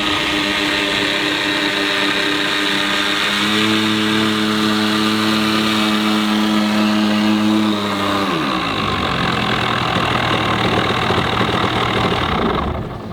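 Engine of a large radio-controlled model airplane running steadily. It is throttled up about three and a half seconds in, pulled back to a low idle after about eight seconds, and fades near the end.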